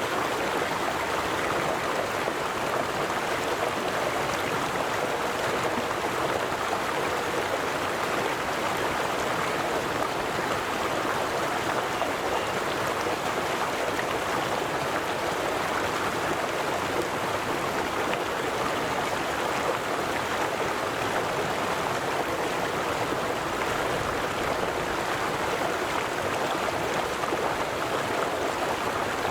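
A river running: a steady, even rush of flowing water over rocks.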